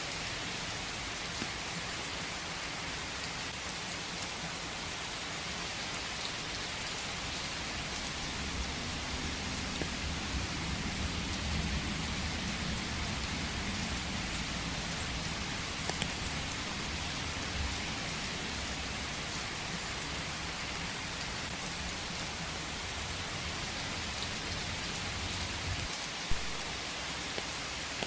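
Steady rain falling in a forest, an even hiss of drops. A low rumble swells through the middle and fades, and a single sharp drop or tap stands out near the end.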